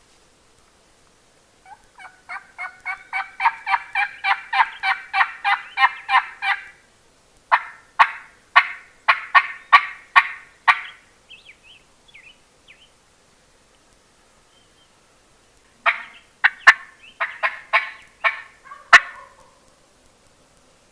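Turkey yelping in three runs. The first is a long string of quick yelps, about four a second, that grows louder. Then come two shorter runs of sharper, louder notes.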